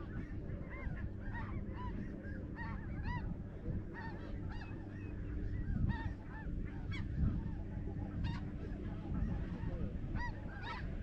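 Snow goose calls: a dense chorus of many short, overlapping honks, with a steady low rumble underneath.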